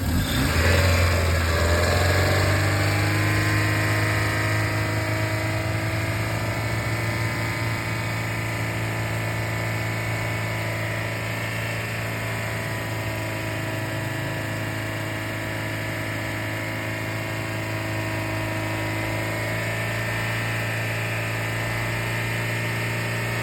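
Engine running steadily during a cooling-system flush, its speed rising over the first two seconds and then holding at an even hum.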